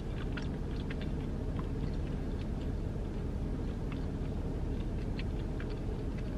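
Close-up chewing of a mouthful of soft chopped pork barbecue with the mouth closed, small moist mouth clicks scattered irregularly, over a steady low rumble.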